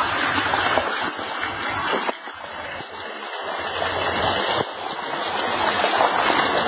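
Heavy water gushing out from inside a tree trunk, a steady rushing splash. The level drops suddenly twice and builds back up each time.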